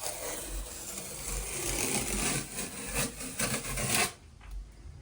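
Electric drill grinding its bit through hard porcelain wall tile, a harsh rasping noise that stops abruptly about four seconds in.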